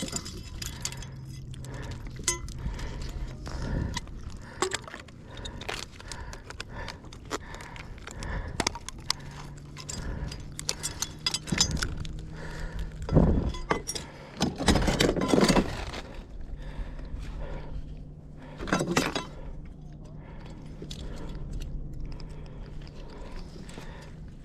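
Crab trap and catch being handled: metal clinking and rattling with scrapes, and a few louder knocks about halfway through and near the end.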